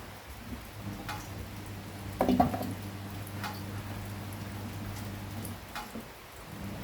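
Rain dripping, with single drops ticking at irregular intervals over a steady low hum, and one louder knock about two seconds in.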